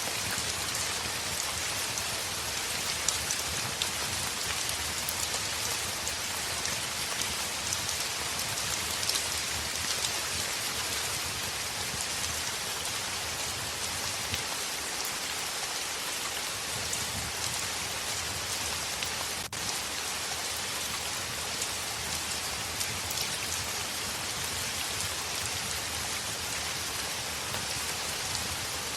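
Heavy rain on a window: a steady, even hiss with many small drop ticks scattered through it.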